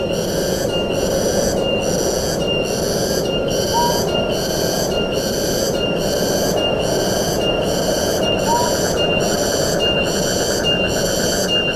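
Tropical forest ambience: a steady rush of wind under a high, pulsing call repeating a little under twice a second, like an insect or bird chorus. A short rising chirp sounds twice, about four and nine seconds in.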